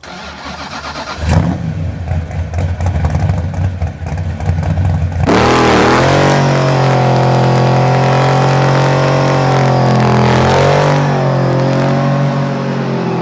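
Engine running, then revved up about five seconds in and held at a steady high speed, dipping near eleven seconds and easing off near the end.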